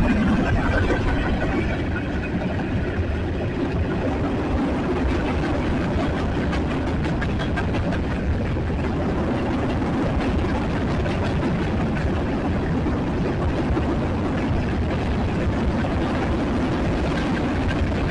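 Freight train cars rolling past close by: a steady rumble of steel wheels on the rails, with rapid faint clicking through the middle.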